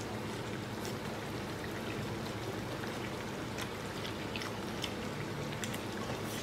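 Close-up chewing and eating sounds: soft wet mouth clicks and smacks every second or so over a steady low hiss.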